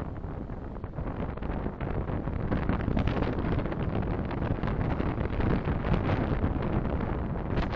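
Road and wind noise of a moving car picked up by a dashcam microphone, a dense rumble that grows louder over the first three seconds and then holds steady.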